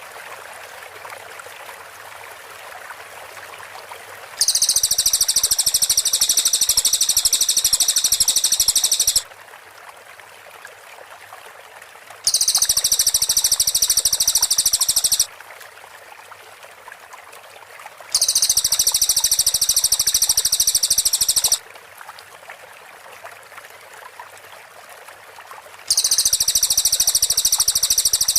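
Cililin birds singing their fast rapid-fire high-pitched chatter, the dense 'tembakan' burst of tightly packed notes, in four bursts of three to five seconds each that start and stop abruptly, with a steady rushing hiss between them.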